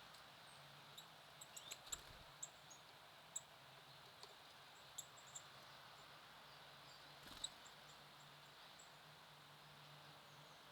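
Small songbirds giving short, faint, high-pitched call notes, scattered irregularly over a quiet hiss, with two soft taps about two seconds in and again past the middle.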